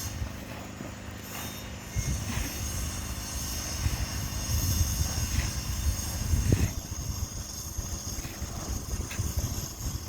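A garage door running, a steady mechanical whine over low rumbling; it grows louder about two seconds in and drops back a little before the seven-second mark.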